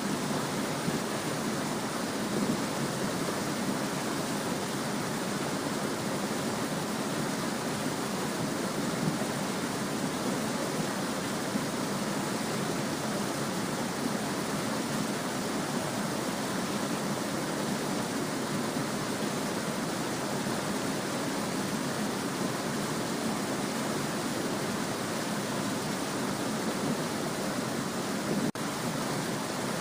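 A quiet stream babbling steadily, an even rush of running water. There is one brief dip in level near the end.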